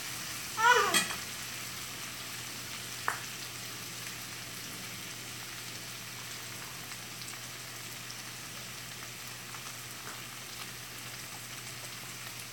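Diced potatoes, onions and jalapeños frying in a skillet, a steady sizzle, with a brief vocal sound about a second in and a single tap about three seconds in.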